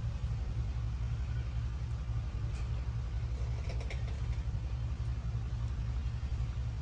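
A steady low engine-like hum, pulsing evenly, with a few faint clicks and a brief higher sound about four seconds in.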